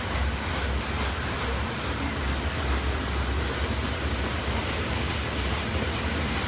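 Stone-loaded freight hopper cars of a rock train rolling past on the main line: a steady, unbroken rumble of steel wheels on rail.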